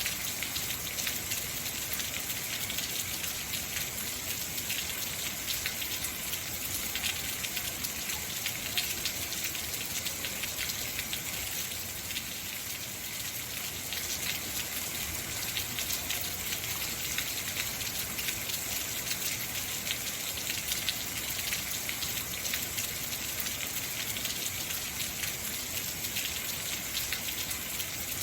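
Heavy rain falling steadily: a dense, even hiss of many fine drop impacts.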